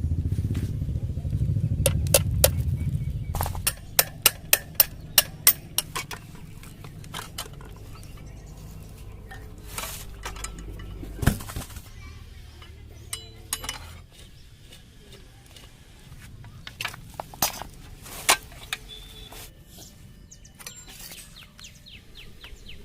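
Metal workshop sounds: a low rumble that fades out about three seconds in, then a quick run of sharp metal taps, about three a second, followed by scattered clinks and knocks of tools on metal parts.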